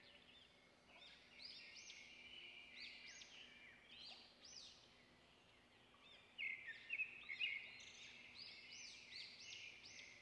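Faint bird chirping and twittering, in short repeated rising-and-falling calls, busiest from about six seconds in.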